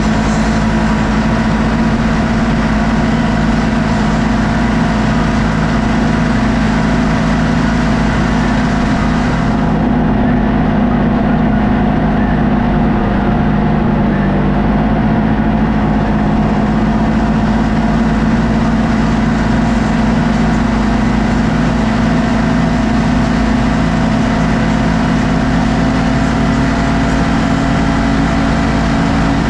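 A vehicle's engine running steadily at low, nearly constant speed while driving, a continuous hum with little change in pitch.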